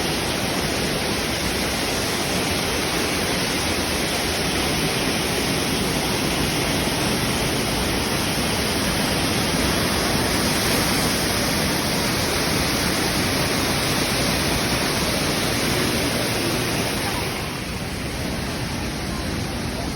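Rushing stream water, a steady full hiss that drops a little in level near the end.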